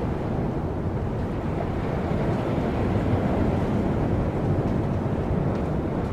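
Strong wind buffeting the microphone: a steady, low rushing rumble with no distinct impacts.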